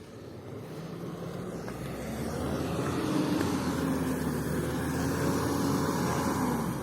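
4x4 truck engine working under load, growing louder over the first three seconds, then holding steady before easing off near the end.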